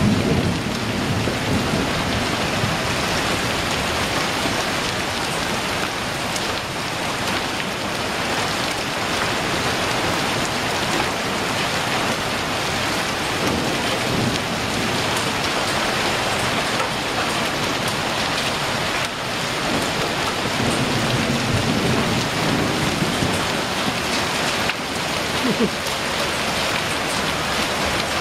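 Heavy thunderstorm downpour of rain mixed with hail, falling steadily and densely onto pavement, standing water and roofs, with scattered sharper ticks of hailstones. A low rumble swells about twenty seconds in.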